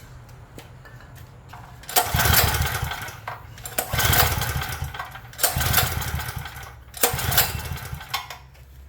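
Craftsman portable generator's small engine pull-started four times with the choke open, each pull cranking it for about a second. It does not catch and keep running: a no-start condition.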